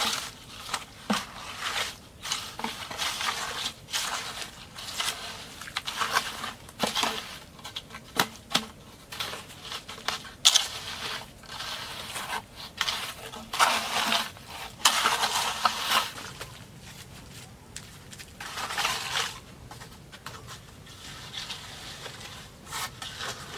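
Bamboo being handled and worked by hand: irregular scraping, crunching and crackling with a few sharp knocks, thinning out near the end.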